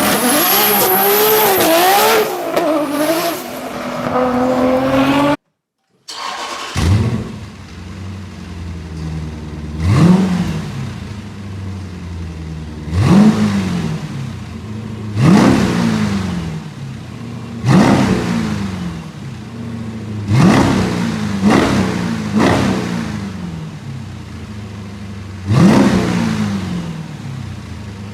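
Jeep Grand Cherokee SRT8 V8 with an aftermarket sport exhaust starting up, then idling and given about seven quick throttle blips, each rising sharply and settling back to idle. Before the start, a few seconds of sweeping, wavering sound cut off abruptly.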